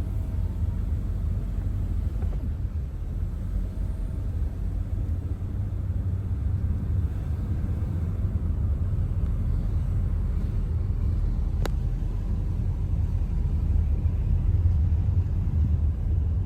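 Steady low rumble of a car driving, engine and tyre noise heard from inside the cabin, with one brief click about two-thirds of the way through.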